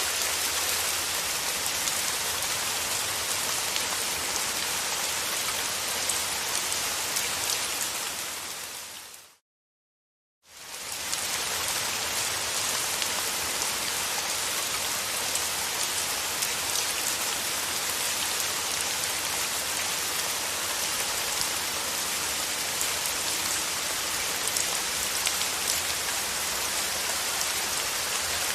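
Steady rain. It fades out about nine seconds in, leaves about a second of silence, then fades back in and runs on evenly.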